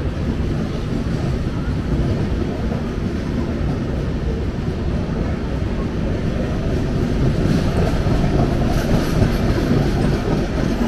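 A long passenger express train running past on the tracks just below, with a suburban electric local train on the next line: a steady rumble of wheels on rails that gets a little louder in the last few seconds.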